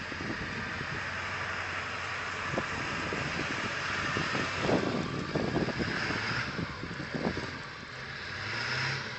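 A car's engine running and tyres working on snow as it comes up a snowy hill, with a cluster of short knocks in the middle and the engine pitch rising near the end.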